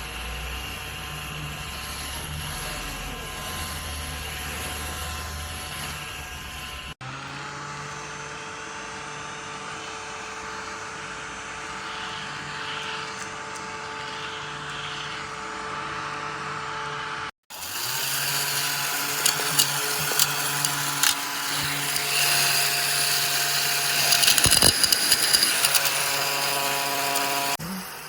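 Small cordless desktop vacuum cleaner's motor running with a steady whine, in three stretches separated by two sudden cuts. The last stretch is louder, with scattered sharp clicks and rattles.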